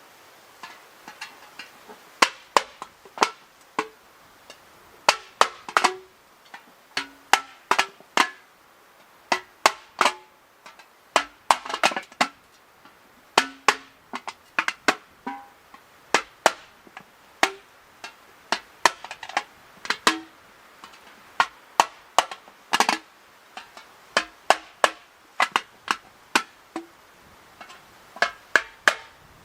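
Irregular sharp taps and knocks of hard objects, one to three a second, some with a brief low ringing tone.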